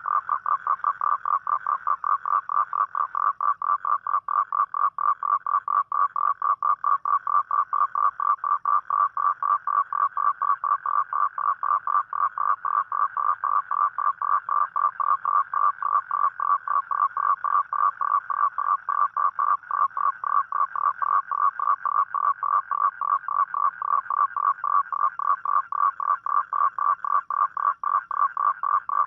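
Toad calling at night: a steady, unbroken trill of rapid, evenly spaced pulses.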